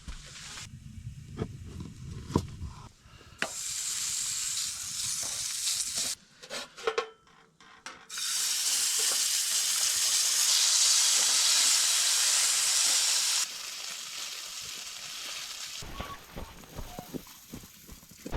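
Food frying in a pan, a high sizzling hiss that starts and stops abruptly several times and is loudest in the middle. Short clicks and knocks come between the stretches of sizzling.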